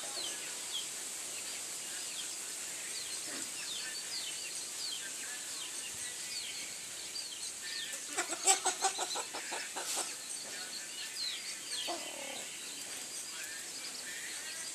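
Chicken chicks peeping over and over in short falling chirps. About eight seconds in comes a louder, rapid run of calls lasting about a second, and another short, lower call follows near the end.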